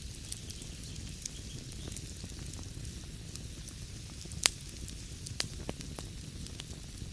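Wood fire burning in a fireplace: a steady low rumble and hiss with scattered crackles, and one loud pop about four and a half seconds in.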